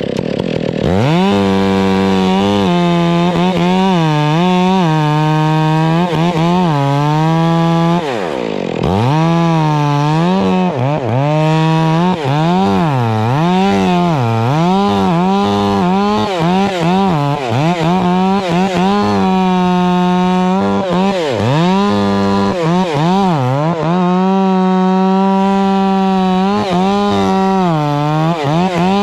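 Stihl chainsaw cutting into palm trunk wood, its engine pitch dipping over and over as the chain bites under load and climbing back between cuts. It holds a steady high speed for a few seconds about two-thirds of the way through and again near the end.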